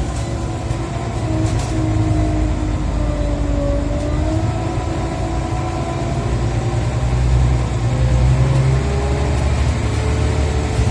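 Scania Omnicity bus heard on board while driven hard: a steady low engine rumble with a whine from the ZF automatic gearbox that dips in pitch about a third of the way in, then climbs again.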